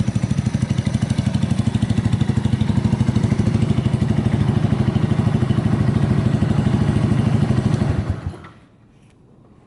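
Yamaha TW200's air-cooled single-cylinder four-stroke engine idling through an aftermarket Supertrapp megaphone muffler, an even exhaust beat with no abnormal noise. A little past eight seconds in it is switched off and stops abruptly, leaving a few faint clicks.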